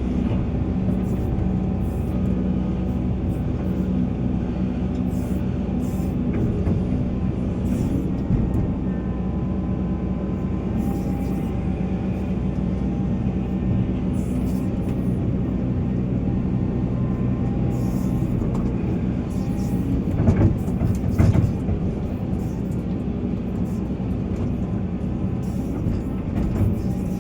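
Volvo EC480 excavator's diesel engine running steadily under working load, with a couple of louder knocks about three-quarters of the way through.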